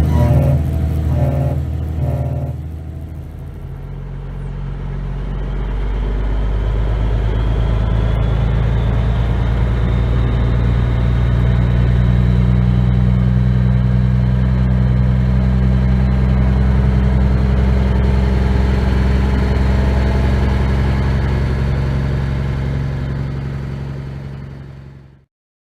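Heavy truck diesel engine running under load, easing off about three seconds in, then building back up and holding steady, with a faint rising whine above it; the sound fades and cuts off near the end.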